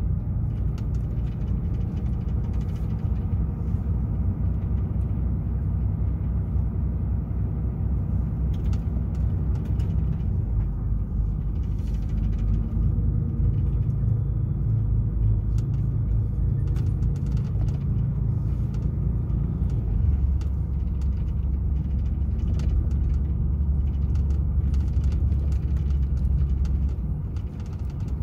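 DAF XF 480 truck's 12.9-litre straight-six diesel running under way, a steady low drone with road noise. Its pitch shifts about twelve seconds in and again about twenty seconds in, and it drops away near the end.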